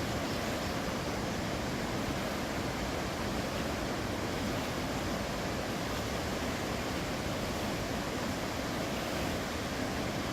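Steady, even rush of whitewater on the Potomac River rapids, with no breaks or distinct splashes.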